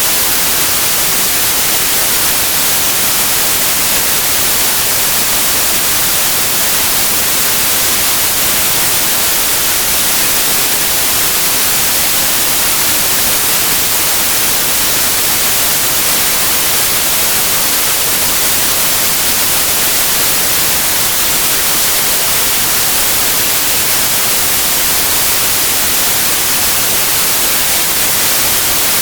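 Steady white noise: an even, unbroken hiss, loudest in the high frequencies, with no tones or rhythm.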